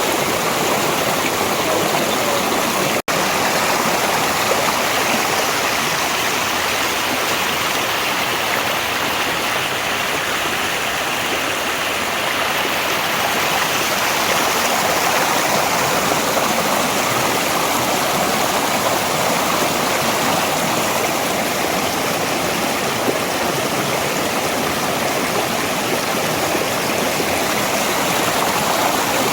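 Mountain valley stream flowing steadily, a dense continuous rush of water. A split-second break in the sound about three seconds in.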